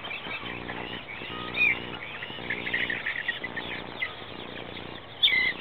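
Young chickens in a chicken tractor peeping and chirping, many short overlapping calls, with one louder call near the end.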